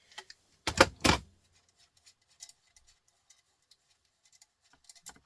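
Small metal scrap parts being handled and dropped, with two loud clattering knocks about a second in, then scattered faint clicks.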